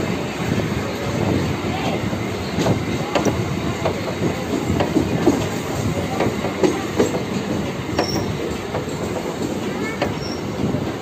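Indian Railways sleeper-class passenger coaches running past close by: a steady rumble of steel wheels with irregular clattering knocks over rail joints, and a couple of brief high wheel squeals near the end.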